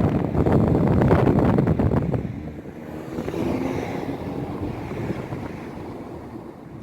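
Wind buffeting the microphone, heavy for the first two seconds and then easing off to a lighter rush.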